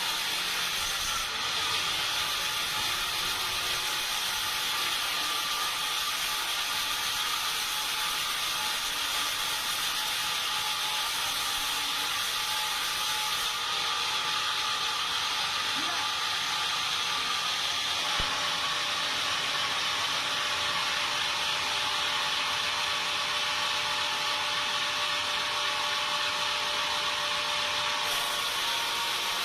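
Sawmill machinery running steadily: a continuous even noise with faint steady tones through it, its tone shifting slightly about halfway.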